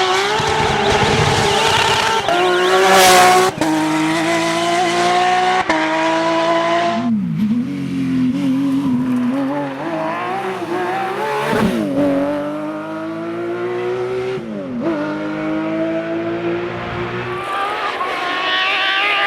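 Porsche rally car's flat-six engine at full throttle, rising in pitch and dropping back at each of several quick upshifts. It then goes through a stretch of revs falling and climbing again as the car slows for corners and accelerates out.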